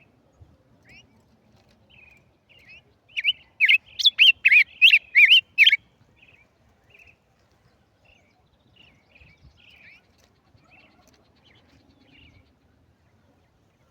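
A tigerillo (a small songbird) singing: soft scattered twittering notes, broken by a loud run of about eight quick, sharp notes from about three to six seconds in.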